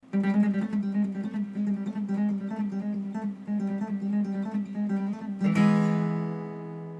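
Guitar music: quick plucked notes over a steady low note, ending about five and a half seconds in on a strummed chord that rings out and fades.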